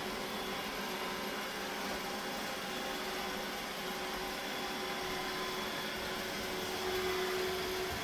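Roomba robot vacuum running: a steady hum with a fixed whine over a brushing hiss, growing a little louder near the end.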